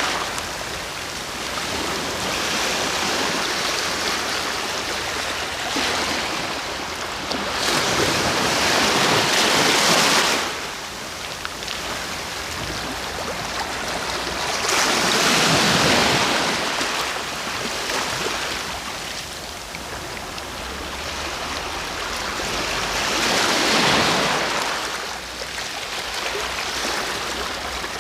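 Sea waves breaking and washing up, four surges of surf rising and falling away, one every six to eight seconds.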